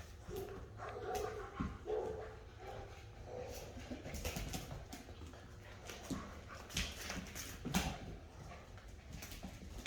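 Rottweiler puppies vocalizing in play, with short pitched sounds mostly in the first few seconds, and scattered knocks and scuffles of play through the rest.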